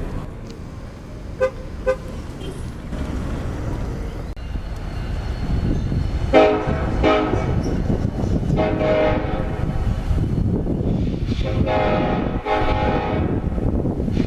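Freight diesel locomotive's air horn sounding several blasts, starting about six seconds in, over the growing rumble of the approaching train.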